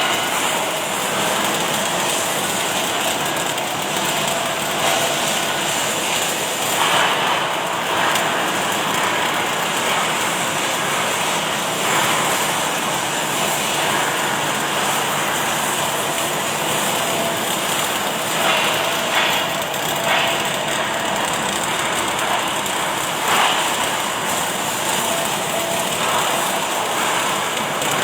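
Automatic welding machine running on a factory floor: a steady, loud hiss of machine and welding noise, with a few brief louder swells.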